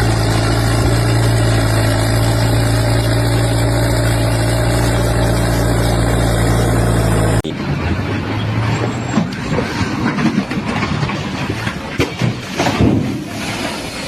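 An engine running steadily at a constant pitch, cut off abruptly about seven seconds in. Irregular clattering and knocking noises follow.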